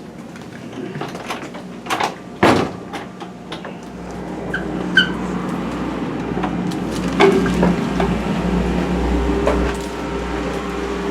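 A door in a railroad passenger car sliding and knocking shut, a couple of sharp clunks, then a steady low mechanical hum and rumble that grows louder about four seconds in.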